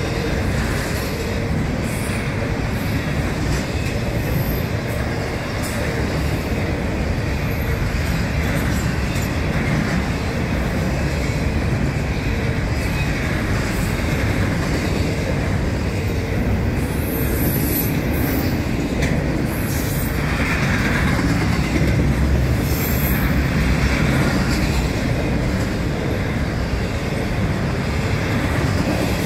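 Double-stack intermodal freight train's well cars rolling past, a steady rumble and clatter of steel wheels on the rails.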